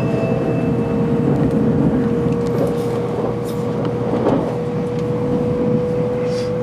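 Shinkansen train running as it pulls away, heard from inside the car: an even low rumble with a steady whine that creeps slightly up in pitch as the train gathers speed. The last note of the on-board chime fades out in the first second.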